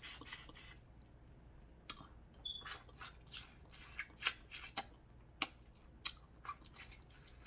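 Close-up eating sounds from a seafood boil: a string of short, irregular smacks and clicks of chewing and sucking on seafood, a few of them sharper than the rest.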